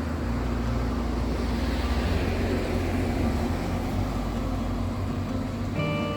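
Steady low rumble and road noise of a car driving. Music comes in near the end.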